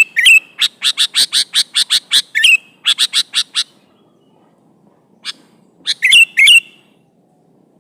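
Sooty-headed bulbul (kutilang) singing. It gives a fast run of sharp chirps, about five a second, mixed with a few bending whistled notes. After a pause about halfway through, one more chirp and two short whistled phrases follow.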